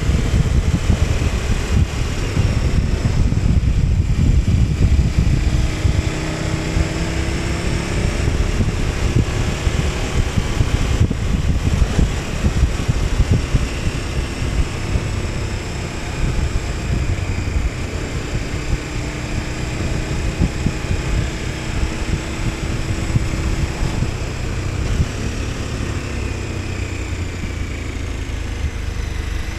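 KTM 1290 Super Adventure S's V-twin engine running while the bike is ridden, its pitch rising and falling gently. It is somewhat louder in the first few seconds.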